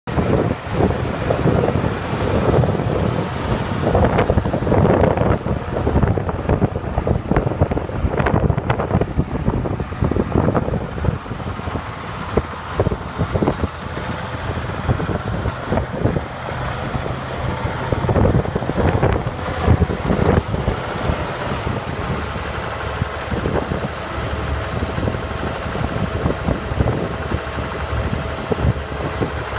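Oliver 1755 tractor's six-cylinder diesel engine idling steadily, with wind buffeting the microphone.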